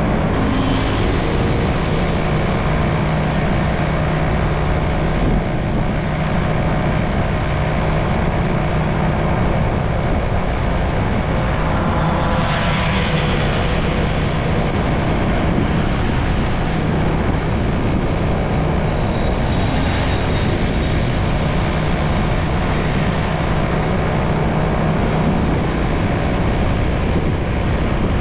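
Motorcycle on the move in road traffic: its engine running at a steady pitch under a constant rush of wind and road noise, with two brief louder swells about twelve and twenty seconds in.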